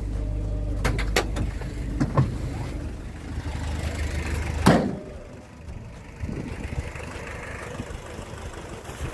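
VW T3 Doka's engine idling, a steady low rumble, with a few sharp clicks and knocks. About five seconds in comes one loud knock, after which the engine rumble stops.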